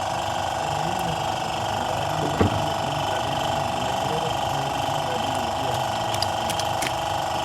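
A steady mechanical hum made of several held tones, with one sharp knock about two and a half seconds in and a few light metallic clicks near the end.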